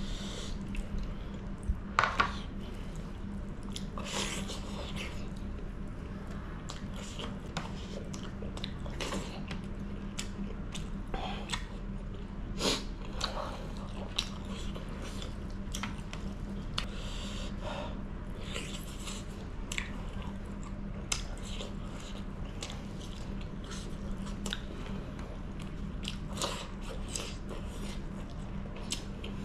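Close-miked mukbang eating: a person biting and chewing chicken curry by hand, with wet mouth clicks and smacks at irregular intervals. A steady low hum runs underneath.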